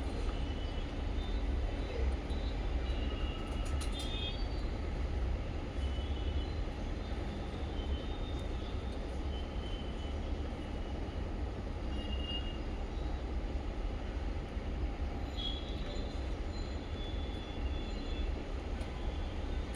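Small pet parrots (budgies and lovebirds) giving short, scattered chirps over a steady low rumble.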